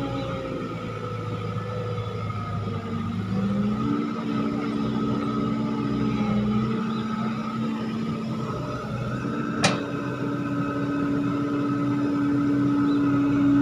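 Heavy diesel machinery running steadily, its engine note stepping up and down in pitch a few times, with one sharp click about ten seconds in.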